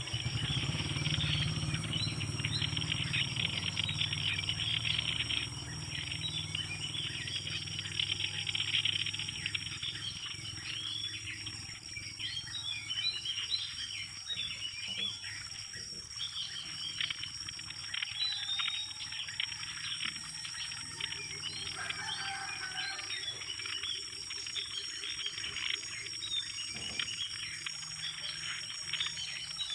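Small birds chirping over a steady high insect drone in the open air. Background music plays for the first five seconds or so and then stops.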